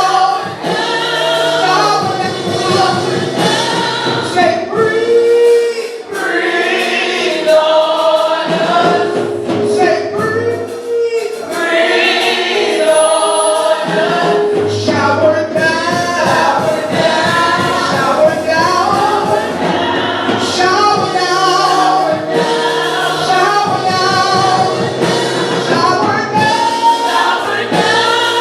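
Gospel choir singing a worship song, several voices together over held low notes of an accompaniment.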